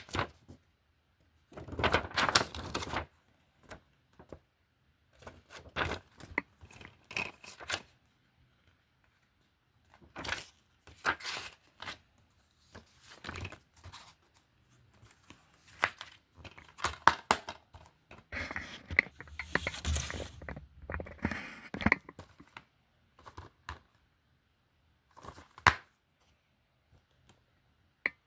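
Plastic DVD and Blu-ray cases being handled: irregular clacks, clicks and rustling in short bursts with quiet gaps between.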